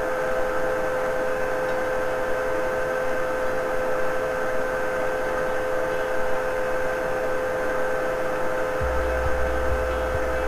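Vacuum cleaner running steadily with a constant motor whine, cleaning out the threads of a glow plug hole. A low rumble comes in near the end.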